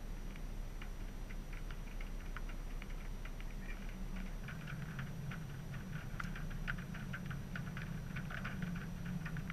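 Light rain: scattered drops ticking irregularly on a nearby surface, coming thicker about four seconds in, over a low steady hum.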